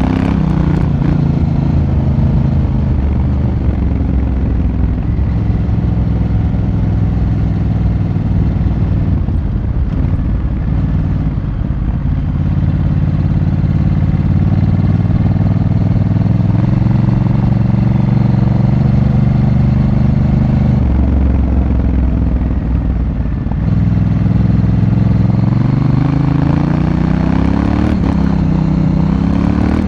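Honda Africa Twin's twin-cylinder engine heard from on board while riding, its pitch stepping and gliding up and down with throttle and gear changes: a drop just after the start, a lower stretch around the middle, then a rise in the last few seconds.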